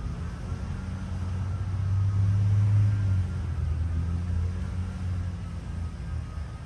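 A steady low rumble that grows louder about two seconds in and eases after about three seconds.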